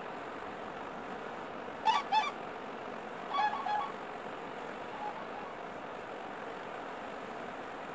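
Short pitched bird calls over steady background noise: two quick calls about two seconds in, a cluster of three or four about a second later, and one faint call near the middle.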